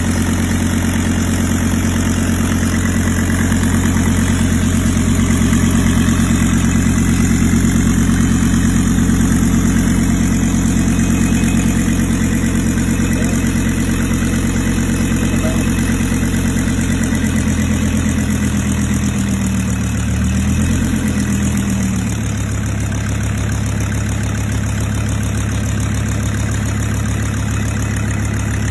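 Mercedes-Benz car engine idling steadily. About two-thirds of the way through, its note wavers briefly and then settles into a steady idle again.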